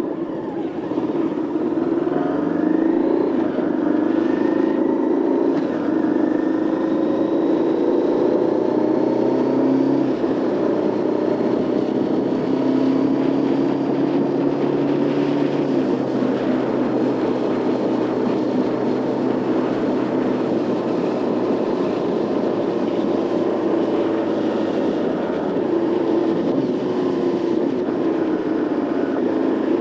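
Motorcycle engine running on the road, revs rising over the first few seconds and then holding fairly steady with small changes in pitch, over wind and road noise.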